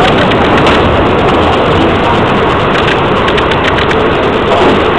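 Passenger train running over a timber trestle viaduct, heard from an open carriage window: a loud, steady rumble and rush of wheels on rails with a few light clicks.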